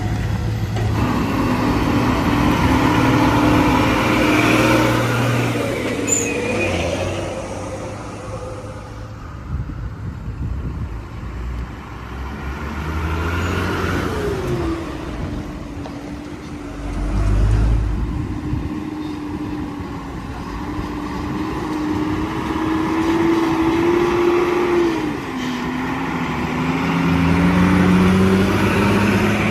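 Heavy road vehicle engines, a bus and a truck, running under load. The engine pitch holds, drops sharply about halfway through, settles, then drops again near the end.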